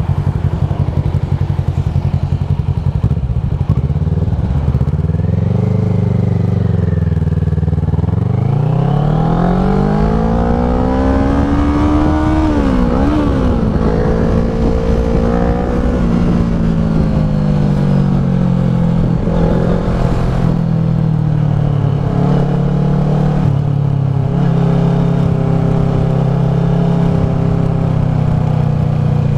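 Kawasaki ER-6f's parallel-twin engine running through a Leo Vince SBK slip-on exhaust. Its pitch climbs for about four seconds from around eight seconds in, dips sharply once, then eases down and holds steady.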